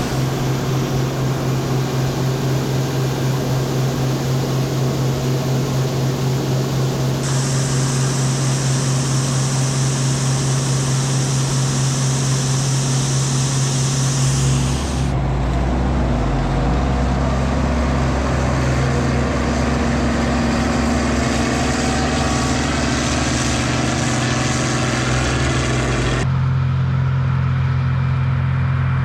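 Combine harvester's engine and threshing machinery running steadily under load. The sound changes abruptly about 7, 15 and 26 seconds in, as if heard from different spots.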